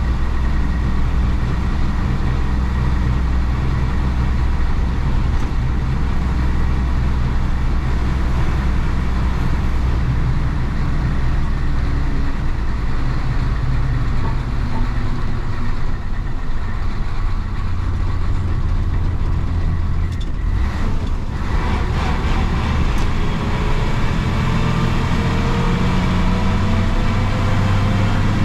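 1966 Isuzu BXD30 bonnet bus's DA640 diesel engine running as the bus drives, a steady low hum for the first half. A little past two-thirds through, the engine sound briefly breaks off, then its note climbs steadily toward the end.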